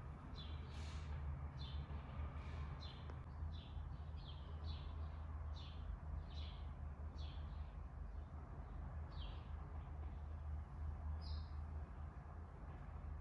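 A small bird chirping over and over: short, high, falling chirps, about one or two a second, over a steady low hum.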